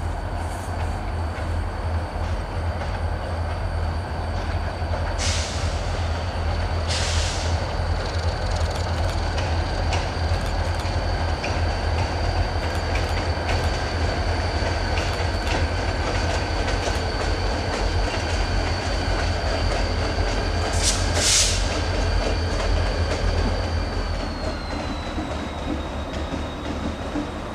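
Two CSX EMD GP40-2 diesel locomotives pulling boxcars past, their engines giving a steady low rumble under a continuous high-pitched wheel squeal that drops slightly in pitch near the end. A few short, hissy screeches break through, twice early on and twice about three quarters of the way in.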